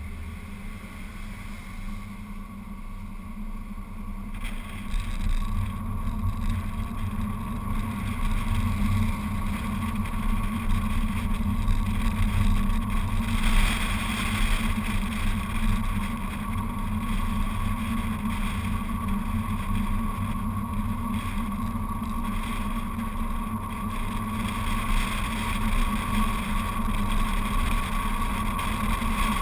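BMW Z4 Coupé's straight-six engine and tyres at a steady cruise, a constant drone with road rumble, heard from a camera mounted outside the car. It gets louder about five seconds in and stays steady after that.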